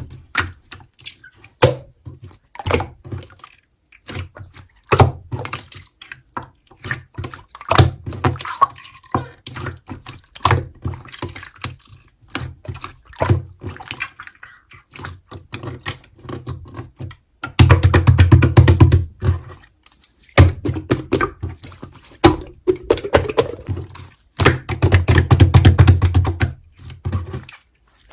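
Clear slime being squished and poked by hand, giving a run of wet clicks, pops and squelches. Twice in the second half it turns into fast, loud, continuous squishing.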